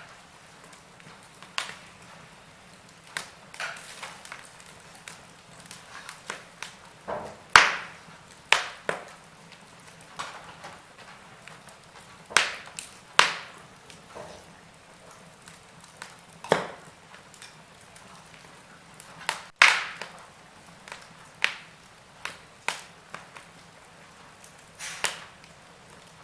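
Wood fire burning in a fireplace: irregular crackles and sharp pops from the burning logs over a soft steady hiss, with a few louder pops scattered through.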